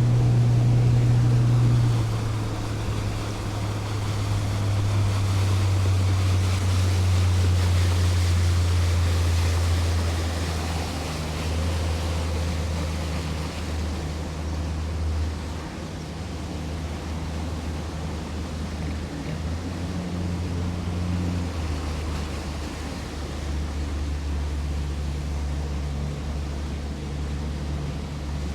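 Boat motor running under way, with water and wind rushing past the hull. The engine note drops about two seconds in and eases lower again around the middle as the throttle comes back.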